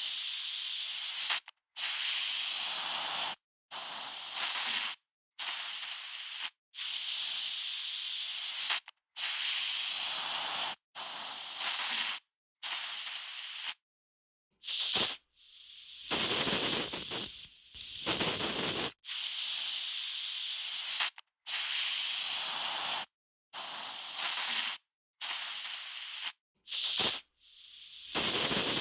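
Aerosol spray can sprayed in a long series of short hissing bursts, each one to two seconds long, with brief silent gaps between them.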